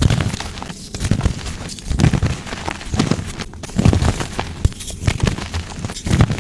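Soft gym chalk blocks being crushed, a crumbly crunch about once a second with fine crackling as the chalk breaks into powder.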